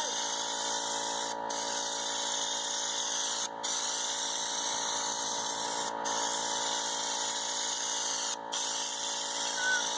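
Compressed air hissing through a Raptor liner spray gun as bedliner is sprayed onto a truck body, over a steady whine. The hiss cuts out for a moment about every two seconds.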